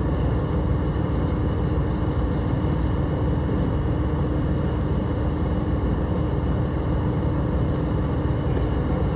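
Steady running noise of a train heard from inside the passenger car: an even rumble of wheels on rail, with a steady hum running through it.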